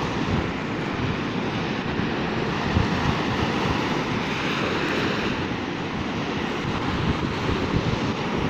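Wind buffeting the microphone in uneven gusts over the steady wash of sea surf.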